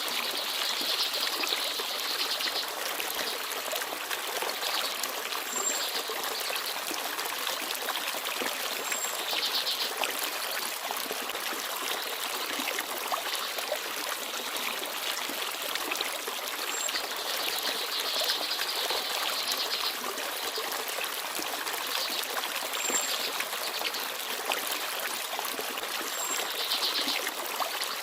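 Small forest stream babbling and trickling steadily over stones. Now and then come short high bird chirps and quick trills.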